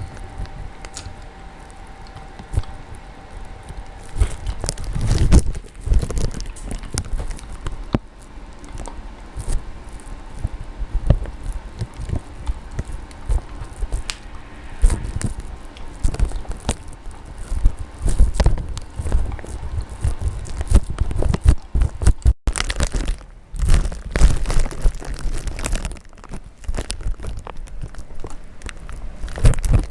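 Irregular crunching and crackling, likely footsteps in deep snow, with repeated gusts of low rumble from wind on the microphone.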